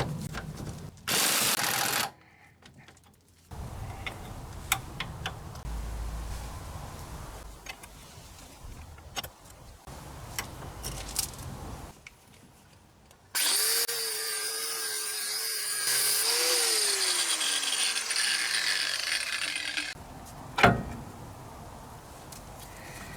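Electric angle grinder working on the car's underbody in separate spells: a brief loud burst, then a longer run whose motor note holds steady and then sinks as it slows. A sharp knock follows near the end.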